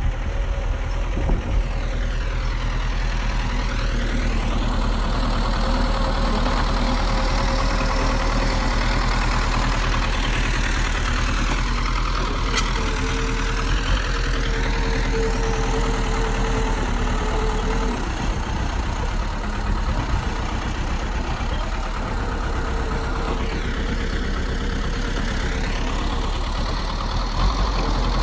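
Bulldozer's diesel engine running steadily, with a whining tone that comes and goes through it.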